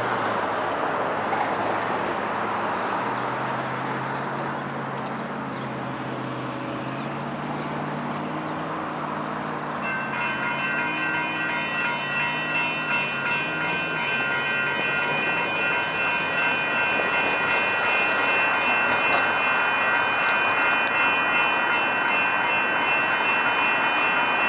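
Road traffic passing, then about ten seconds in the grade crossing's warning bells start ringing, with a steady high clang that keeps on as the signals activate.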